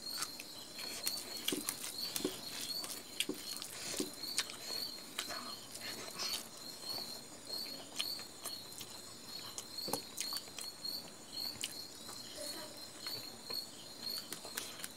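Close-up eating sounds: chewing and lip smacking with small wet mouth clicks, plus fingers squishing and gathering rice on a steel plate, in scattered irregular ticks.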